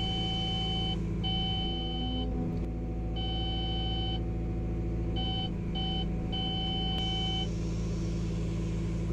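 Cat backhoe loader's e-fence warning tone sounding on and off in beeps of uneven length over the steady running of its diesel engine. The tone signals that the boom has reached the set e-ceiling height limit; it stops about three quarters of the way through while the engine keeps running.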